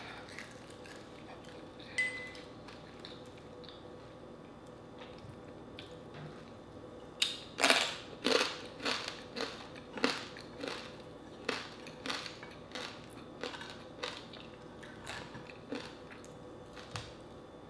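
Close-up crunching of a mouthful of crisp fried dried fish (tuyo) being chewed, about two crunches a second, starting about seven seconds in.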